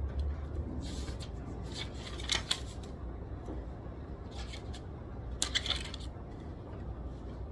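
Library ambience: a steady low hum, with two clusters of short clicks and rustles of small objects being handled at a desk, one about a second in and one past the middle.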